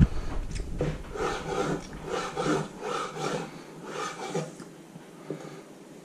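Crunching of a bite of gherkin being chewed close to the microphone: a run of wet crunches about two a second, dying away after about four and a half seconds, followed by a few faint knife taps on a wooden chopping board.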